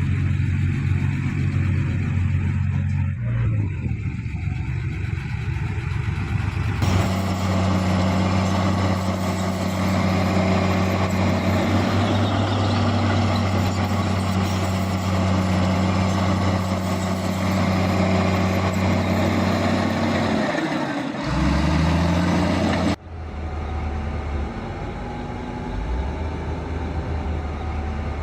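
Heavy diesel machinery engines running under load with a steady low drone. The sound changes abruptly about 7 seconds in and again about 23 seconds in, where it drops quieter.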